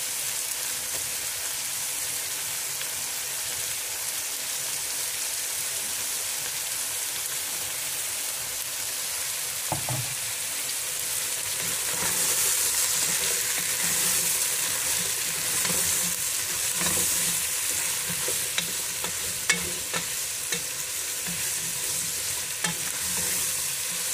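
Sliced courgettes sizzling in a pot with a steady hiss that grows louder about halfway through. From about ten seconds in, a spatula stirs them, knocking and scraping against the pot now and then.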